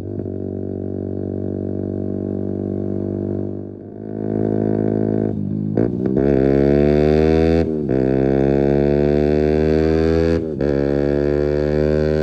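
Keeway RKF 125 motorcycle engine through a Mivv exhaust with the dB killer removed, accelerating through the gears. The pitch climbs steadily and drops sharply at each upshift, twice in the second half. It eases off near the four-second mark before pulling again.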